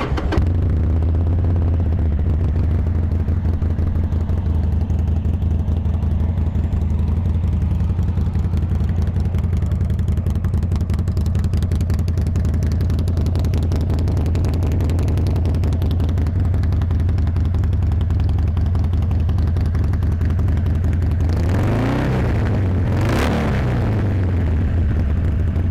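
A 2016 Harley-Davidson Sportster 1200 Custom's fuel-injected 1200cc V-twin idles steadily through aftermarket Rinehart staggered exhaust pipes. Near the end it is revved twice, the pitch rising and falling each time.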